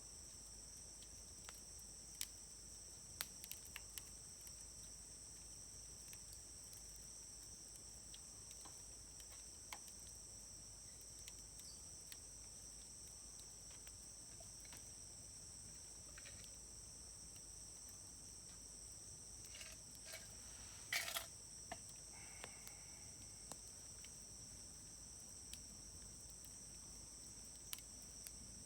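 Wood campfire crackling quietly, with sparse sharp pops and a short cluster of louder pops about two-thirds of the way in. A steady high insect trilling goes on behind it.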